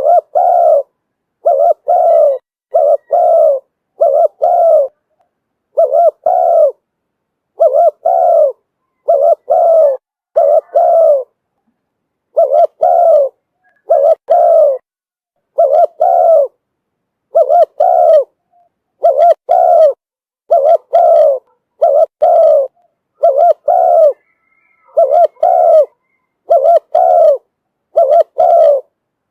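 Spotted dove cooing over and over, a run of short coos spaced about a second apart, with a brief pause near the middle.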